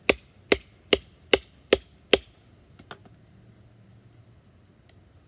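A baton striking the spine of a fixed-blade knife, driving it straight down into a piece of soft wood. There are six sharp knocks at about two and a half a second, stopping after about two seconds, then a couple of faint ticks.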